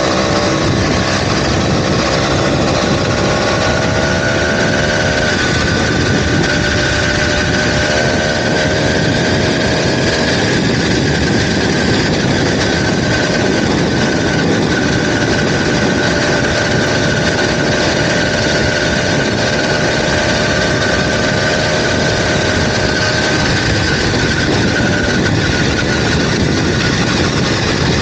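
Small 2-stroke motorized-bicycle engine running steadily while riding, its pitch creeping up slightly over the first several seconds and then holding even.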